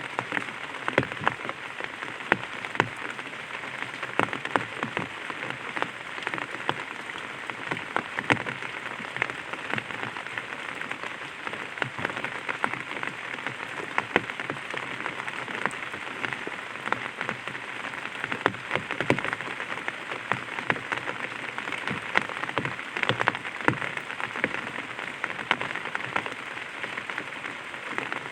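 Light rain falling on an umbrella: a steady hiss of rain with many sharp, separate taps of single drops hitting the canopy.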